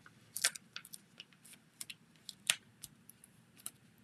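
Scattered small clicks and light paper rustles of hand paper-craft work: foam adhesive dimensionals being peeled from their sheet and pressed onto a cardstock layer. The loudest click comes about two and a half seconds in.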